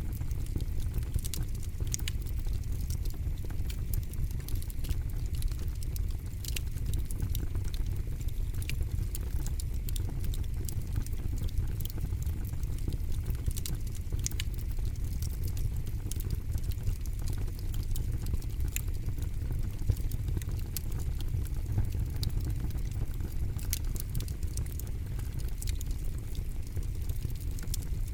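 Campfire burning and crackling: frequent irregular sharp pops and snaps over a steady low rumble of the flames.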